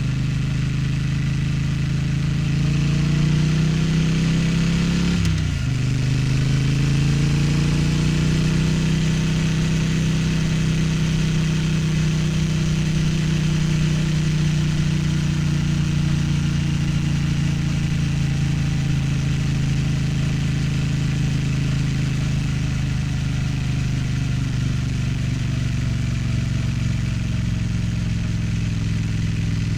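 Triumph Street Twin's 900 cc parallel-twin engine under way. It revs up, and about five seconds in the pitch drops sharply as the rider shifts up a gear. It picks up again, then holds a steady cruise with the revs slowly falling.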